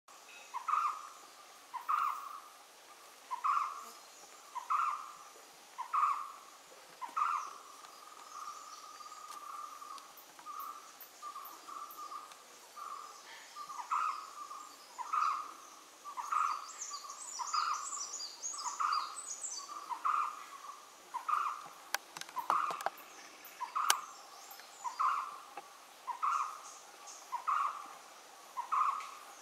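A bird calling one short note over and over, about once every second and a bit, with a softer run of notes in the middle. Higher chirps come in about two-thirds of the way through, and there are two sharp clicks near the end.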